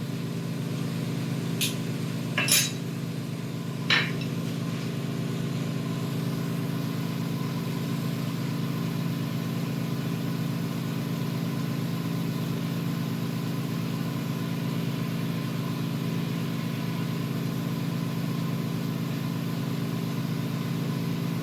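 A steady machine hum, with a few light clinks of glass tubing in the first four seconds.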